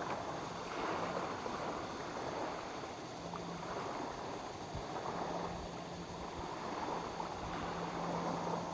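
Small lake waves lapping at the shore, the wash swelling and easing every couple of seconds, with a faint low hum coming and going underneath.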